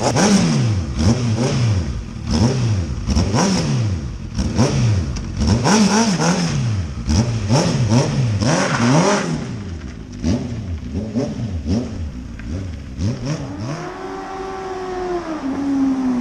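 Honda CB650F's inline-four engine with an Akrapovic muffler, revved in a rapid run of short throttle blips, each rising and dropping back. Near the end it gives one longer rev that climbs, holds briefly and falls away.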